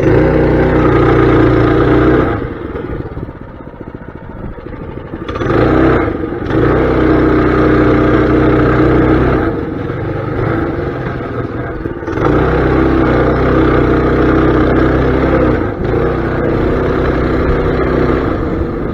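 Mini bike's small engine running under throttle, easing off and speeding up again several times, with its first and longest let-off about two seconds in.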